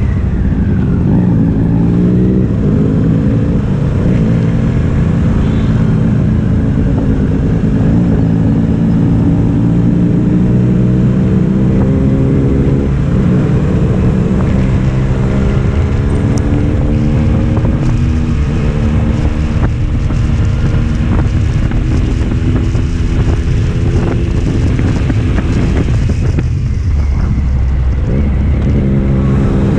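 Triumph Street Triple's inline-three engine and exhaust under way, its pitch repeatedly climbing and then dropping back as it accelerates through the revs, with wind noise on the microphone.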